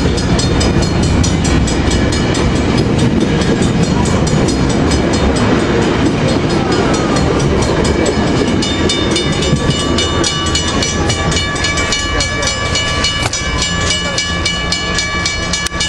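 Metrolink bilevel passenger cars rolling past close by, their wheels clicking rapidly and evenly over the rail joints. A steady high ringing of several tones joins about halfway through.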